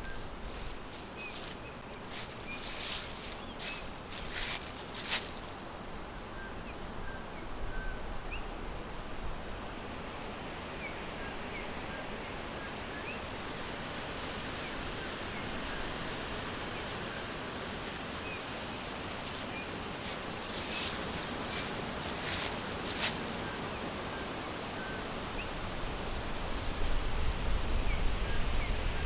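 Forest ambience: short, scattered bird chirps over a steady background hiss, with brief clusters of sharp rustling clicks near the start and again about two-thirds of the way through. A low wind rumble rises near the end.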